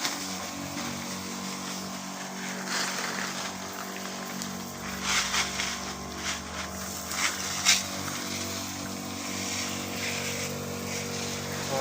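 Small engine of a motorized crop sprayer running steadily at one speed, with a few short clicks in the middle.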